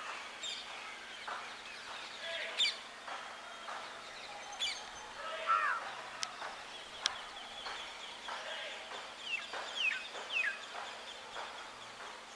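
Birds calling: scattered short chirps and quick falling whistles, with a run of three or four falling notes a little past the middle and two sharp clicks just before it.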